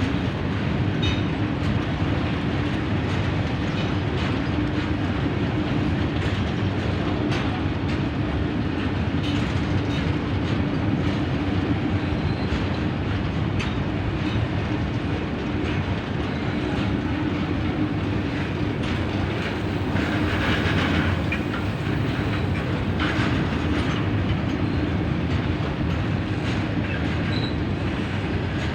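Train running along the track: a steady rumble with a low hum, and wheels clicking over the rail joints.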